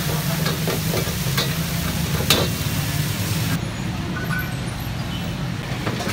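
Meat sizzling in karahi woks, with metal tongs and a ladle knocking and scraping against the woks in a few sharp clanks. A steady low rumble runs underneath throughout.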